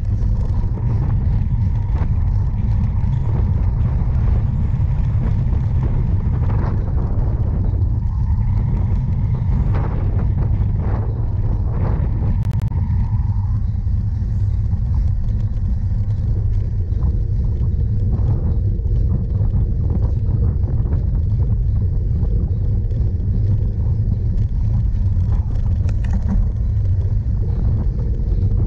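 Steady low rumble of wind and tyres on a camera carried on a cyclocross bike being ridden over rough ground, with scattered knocks and rattles.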